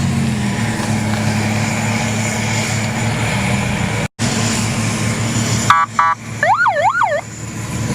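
A steady low engine drone, then, after a sudden cut, a few quick electronic beeps followed by a siren tone that wails up and down, like a car alarm.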